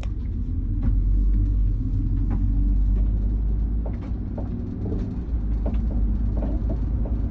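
Steady low road and drivetrain rumble of a 2021 Ford Transit AWD 350 HD camper van on the move, with faint scattered ticks and scrapes over it.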